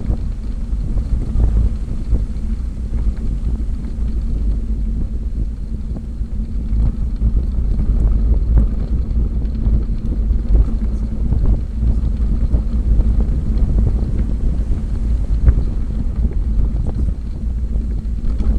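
Wind buffeting the microphone while riding a bicycle: a loud, steady low rumble with scattered light clicks.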